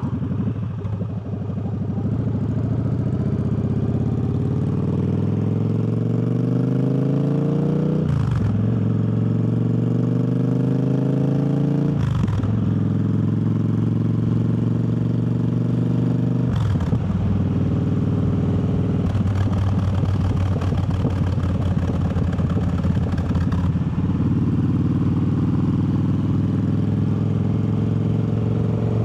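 Triumph Bobber's parallel-twin engine accelerating up through the gears: the revs climb, drop at three quick upshifts a few seconds apart, then hold at a steady cruise.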